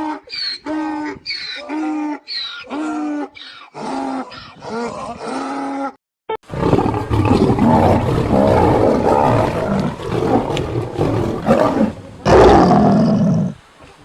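A string of about ten short, pitched animal calls, evenly spaced, then a large animal roaring loudly and at length from about halfway in, with a second loud roar near the end.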